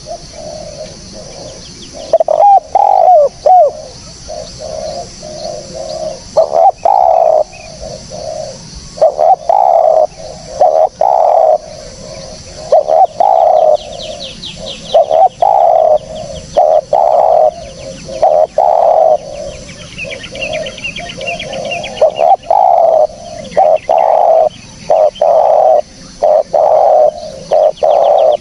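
Spotted dove (tekukur) cooing over and over, one low phrase after another. Faint high chirping trills come in twice, near the middle and again a few seconds later.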